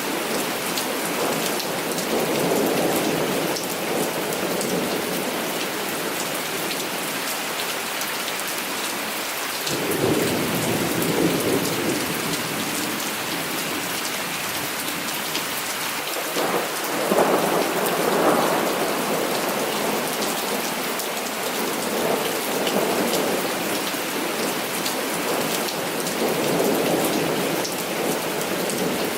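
Heavy rain falling steadily, with rolling thunder. One roll of thunder comes about ten seconds in and a louder one around seventeen seconds.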